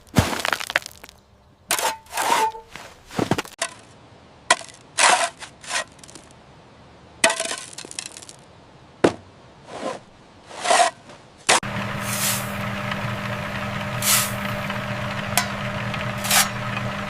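Construction work on brick and masonry: a series of separate cracks, knocks and clinks, some with a short scrape. About eleven seconds in, a small motor starts and runs steadily, with a few clicks over it.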